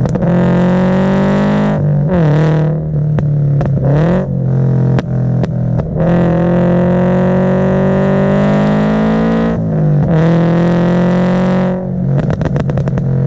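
Scion FR-S flat-four engine pulling under throttle, its pitch dipping and climbing again through several gear changes. Near the end comes a rapid string of exhaust pops and crackles as the throttle lifts, from a tune set up to make the exhaust backfire.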